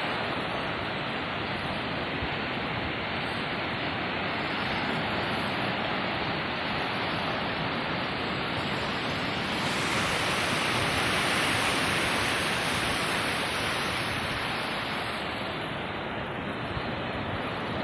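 Ocean surf washing on the shore, a steady rushing that swells a little about halfway through and eases off again.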